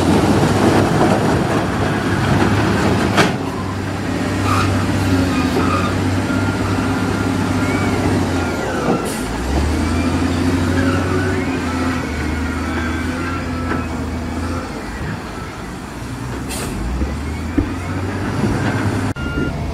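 Heavy diesel earthmoving machinery working: a deep engine note that rises under load and falls back several times, with metallic clanks and squeaks like crawler tracks and a few sharp knocks.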